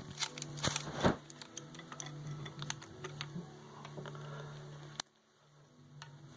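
Small clicks and taps of metal parts being handled while a fuel pump is taken apart by hand, with a louder knock about a second in. A steady low hum runs underneath and cuts off suddenly about five seconds in.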